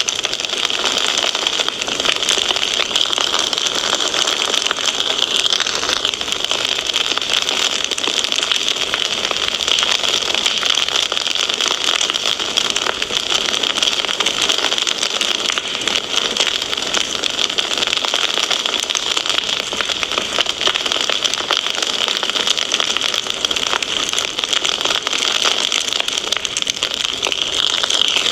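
Wood fire crackling steadily: a dense run of small pops and snaps over a continuous hiss.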